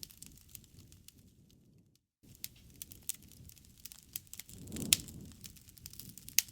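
Wood fire in a fireplace crackling, with scattered sharp pops over a low rumble of flames; the loudest pop comes about five seconds in. The sound cuts out briefly about two seconds in.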